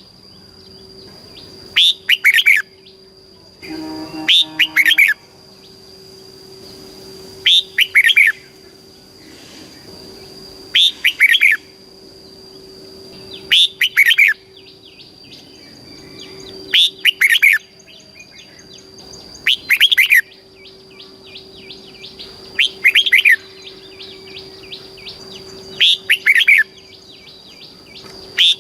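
Red-whiskered bulbul singing loud, short whistled phrases, repeated about every three seconds.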